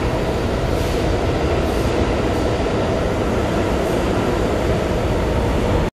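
New York City subway train running steadily. The sound cuts off suddenly just before the end.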